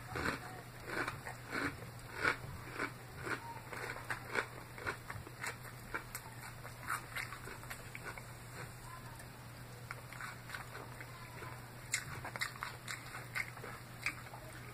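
Close-up chewing of a mouthful of crisp raw salad: sharp crunches several times a second, thinning out for a few seconds mid-way before picking up again.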